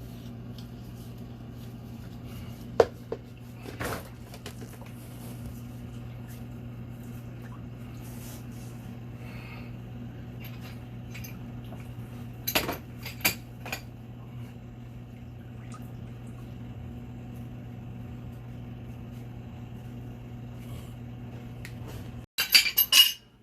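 Metal tools and fittings clinking and tapping against each other during pipe repair work, a few scattered knocks and then a quick run of loud clinks near the end, over a steady low hum.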